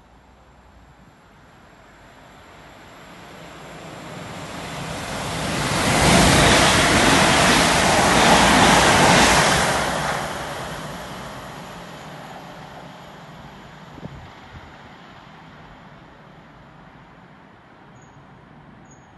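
Two coupled Class 387 electric multiple units running through, a rushing of wheels and air that swells up, stays loud for about four seconds, then dies away. A short click follows about two seconds later.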